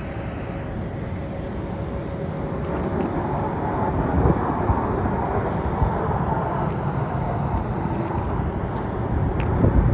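Jet aircraft engine noise at an airport: a steady rushing that swells a few seconds in and holds, with gusty low rumbles over it.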